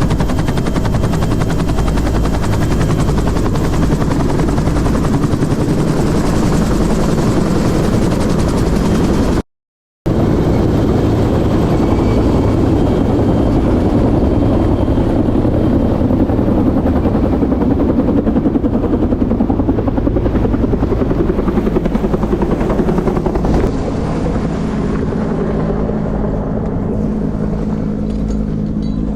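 Bell UH-1 Huey helicopter's rotor and turbine running steadily, a loud, dense, pulsing noise. It cuts out completely for about half a second about ten seconds in.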